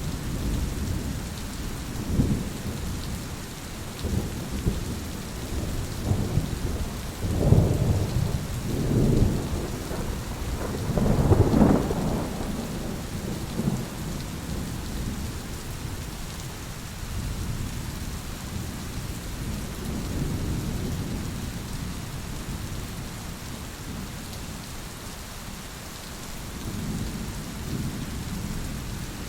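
Thunderstorm: steady rain over rolling thunder, the rumbles growing loudest from about seven to twelve seconds in, then fading to softer rumbles.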